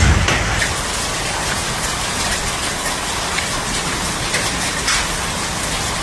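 Heavy rain and hail pouring down steadily, with scattered sharp hits of stones on hard surfaces through the hiss. There is a brief low rumble right at the start.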